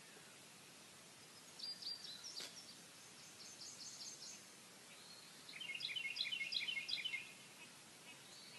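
Faint bird chirping over quiet outdoor background hiss: a few short high notes about two seconds in, then a quick run of repeated chirps around six to seven seconds in.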